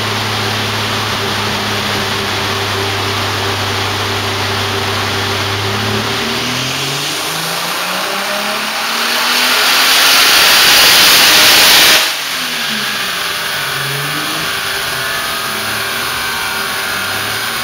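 Turbocharged BMW E30 Touring engine running on a chassis dyno: it holds steady, then about six seconds in it revs up hard through a full-throttle pull, growing very loud. The throttle shuts suddenly about twelve seconds in and the revs fall away, then it settles back to a steady run.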